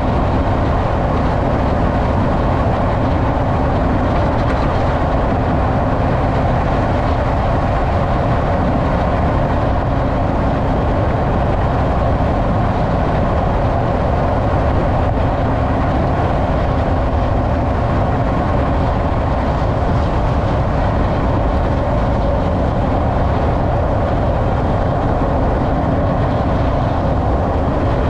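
Steady, even rumble of a 2012 Nissan Frontier Pro-4X pickup being driven: road and running noise, with no distinct clunk standing out.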